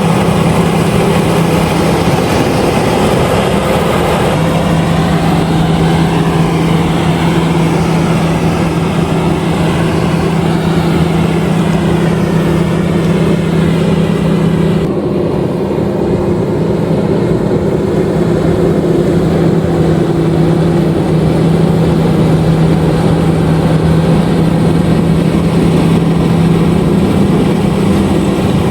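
LOVOL RG130EVO rice combine harvester running steadily under load, its engine hum mixed with the noise of the harvesting machinery. About halfway through, the higher hiss drops away abruptly.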